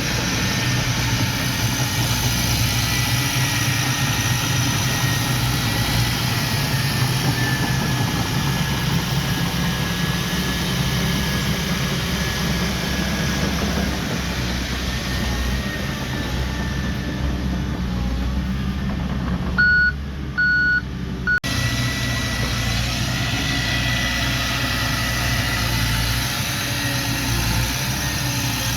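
Heavy diesel earthmoving equipment running steadily under load, with a thin high whine over the engine. About two-thirds through, a reversing alarm gives three short beeps.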